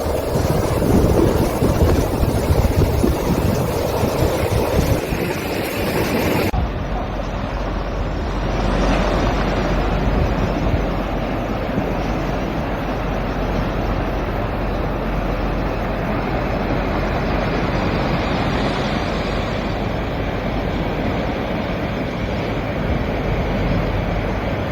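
Sea waves washing over rocks in the wind, a continuous surging noise. About six seconds in the sound changes abruptly to a duller, steadier wash with a constant low rumble underneath.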